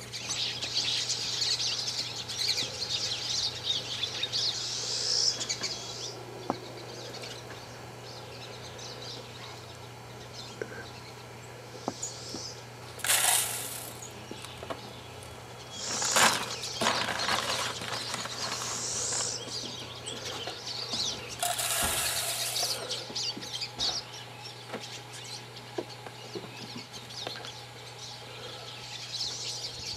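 Birds chirping and calling, with three short rushes of noise in the middle and a steady low hum underneath.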